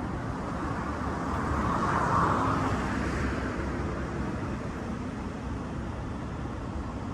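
Road traffic noise, with one vehicle passing that grows loudest about two seconds in and then fades.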